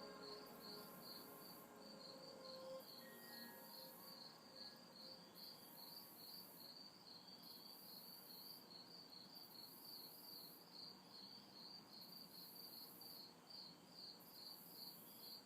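Faint chorus of night insects: a steady, evenly pulsing chirp of about three to four pulses a second over a very high buzz that comes and goes in spells of about a second. The last notes of a soft ambient music track fade out in the first few seconds.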